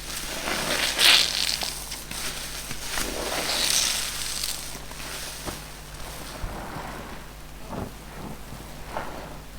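Car-wash sponges being squeezed and crushed by hand: a series of irregular rustling, crackling squeezes, strongest about a second in and again around four seconds in, then softer short squeaks.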